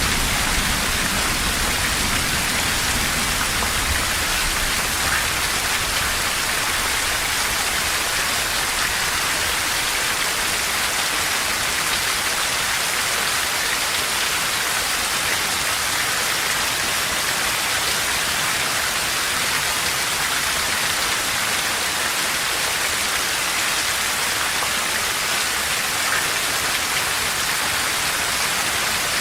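Steady, dense rainfall hissing evenly without a break. A low rumble of thunder fades out in the first few seconds.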